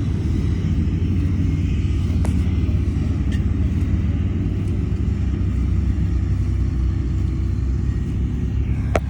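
Shantui bulldozer's diesel engine running with a steady low rumble, with a few light clicks and one sharp knock near the end.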